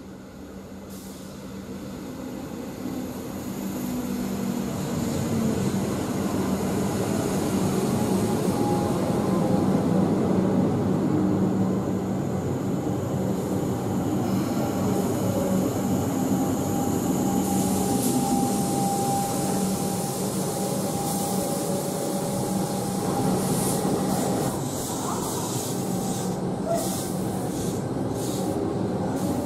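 Comeng electric suburban train pulling into the platform. It grows louder over the first six seconds as it approaches, then runs on steadily with a humming tone over the wheel and rail noise, and a few short hisses near the end.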